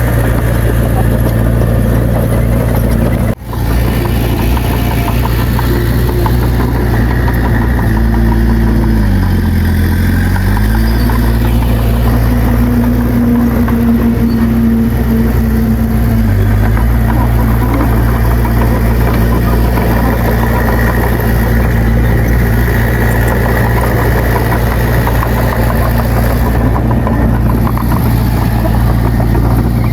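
Heavy diesel engine of a bulldozer running steadily. Its note dips and recovers about ten seconds in, and dips again briefly near sixteen seconds. The sound breaks off for an instant a few seconds in.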